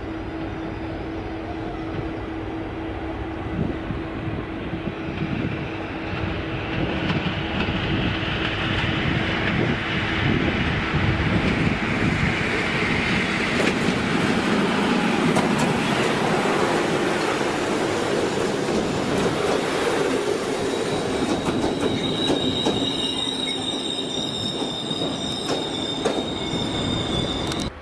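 A train running past on the rails, the rumble of wheels and wagons swelling to its loudest mid-way, then a high steady wheel squeal for the last several seconds until the sound cuts off abruptly.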